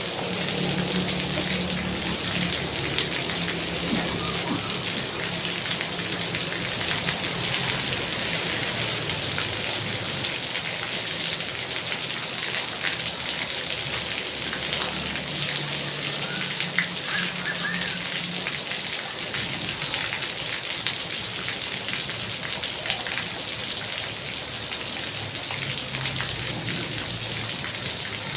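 Heavy rain falling steadily, a dense hiss of countless drops striking surfaces.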